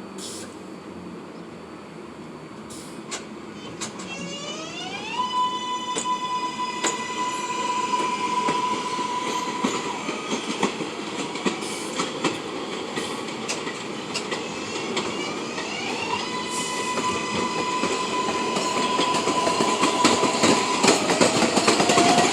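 R142A subway train's propulsion whining as it moves through the station: twice the pitch rises quickly and then holds a steady tone for several seconds. Wheels clack over the rail joints throughout, growing louder near the end.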